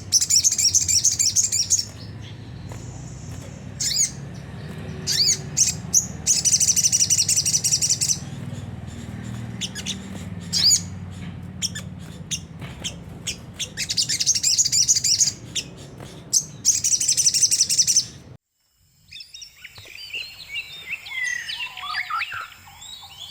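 Crimson sunbird (sogon) giving its harsh, rapid twittering song in repeated dense bursts, with single sharp chirps between them and a steady low hum underneath. About 18 seconds in, the sound cuts off abruptly and a different, lower and more varied birdsong starts.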